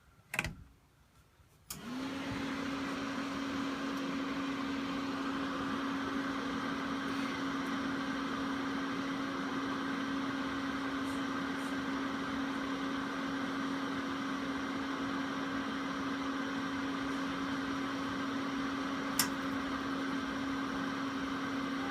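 RV furnace blower motor starting about two seconds in and running steadily with a constant hum, with a sharp click near the end. With the vent covers off the furnace keeps running and fires; the owner suspects a pressure switch on the blower that was shutting it down when airflow was restricted.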